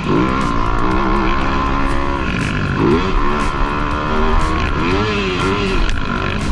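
Motocross dirt bike engine revving up and down, its pitch climbing and dropping several times as the throttle is worked.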